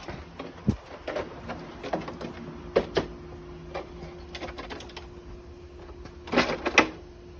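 Scattered light clicks and knocks of tools and metal parts being handled, with a cluster of sharper knocks near the end, over a faint steady hum.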